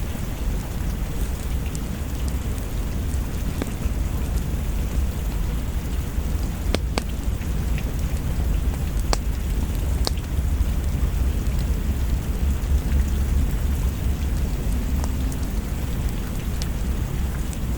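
Steady rain falling, with a constant deep low rumble beneath it and a few sharp clicks about seven, nine and ten seconds in.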